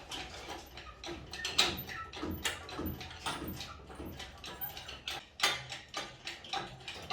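Irregular clicks, knocks and light clattering, some louder strikes standing out at intervals.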